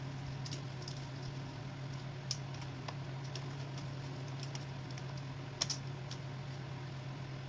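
A few light clicks of small metal nuts and parts being handled, as the injector clamp nuts are picked up and started on their studs, over a steady low hum.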